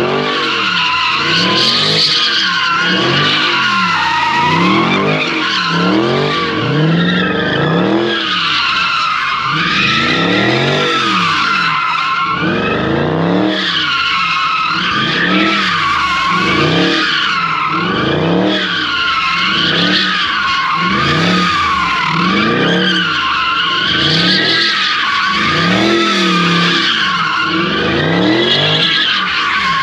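A car doing donuts: continuous tire squeal that wavers in pitch, over an engine whose revs rise and fall in a steady cycle about once a second.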